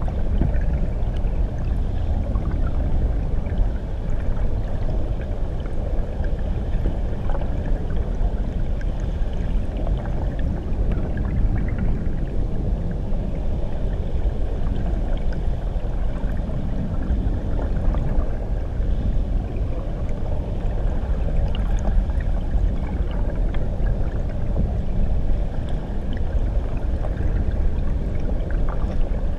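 Waterfall recorded from underwater: a steady, muffled, low rush of churning water with faint scattered bubbling and no separate events.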